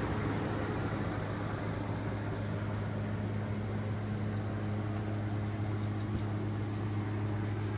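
Several electric cabin fans running together at full speed, a steady whir over a constant low hum.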